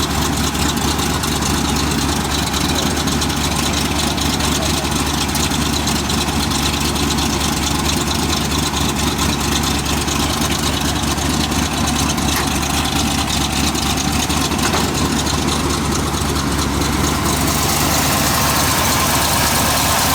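Freshly built 360 cubic-inch small-block V8 of a 1979 Dodge Custom pickup, fitted with shorty headers, idling steadily.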